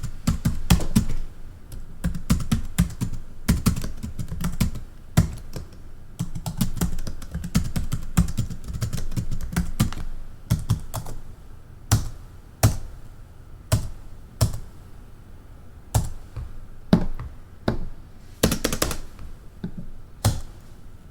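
Typing on a computer keyboard: a quick run of key clicks for about the first ten seconds, then slower keystrokes, roughly one a second.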